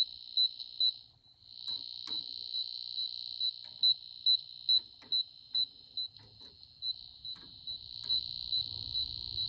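Circuit breaker finder receiver beeping, a high-pitched tone pulsing a little over twice a second, cutting out briefly about a second in. It is being passed over the breakers to find which one feeds the outlet where its transmitter is plugged in.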